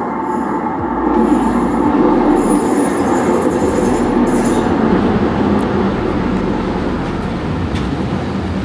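Passenger train running on rails: a steady rumble of wheels and carriage that swells about a second in, with a thin high wheel whine over it in the first couple of seconds.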